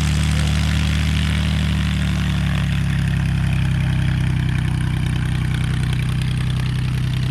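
An engine idling steadily and close, with an even, low hum throughout.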